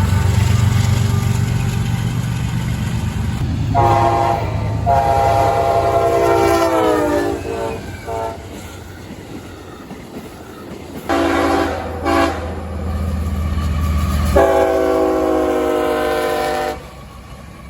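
Diesel freight locomotive's multi-chime air horn sounding six blasts of mixed length, one long blast sagging in pitch as it dies away, over the low rumble of the locomotive's engine; the horn stops sharply near the end.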